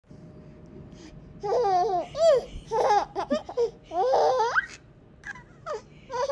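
A baby laughing in a run of bursts starting about a second and a half in, with high squeals and gliding pitch, then a few short squeaky laughs near the end.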